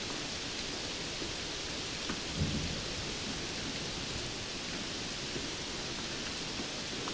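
Steady hiss of rainfall. About two and a half seconds in comes a brief low thump.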